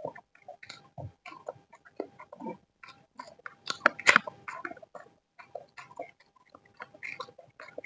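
Close-up chewing of fried rice with sambal: irregular wet smacks and clicks of the mouth, loudest about four seconds in. A faint steady hum sits underneath.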